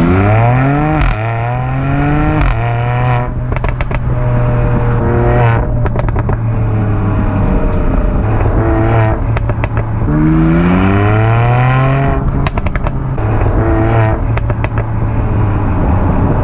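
Mercedes-AMG GLC 43's twin-turbo V6 accelerating hard. The pitch rises and drops at each upshift, and a second hard pull begins about ten seconds in. Between the pulls, with the throttle lifted, the exhaust crackles and pops in short clusters.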